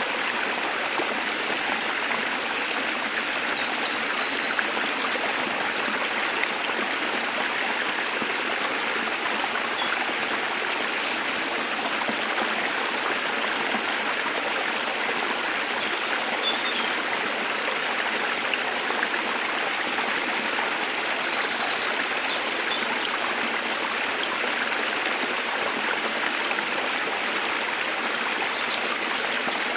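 Waterfall and stream water rushing steadily, with a few faint, brief bird chirps now and then.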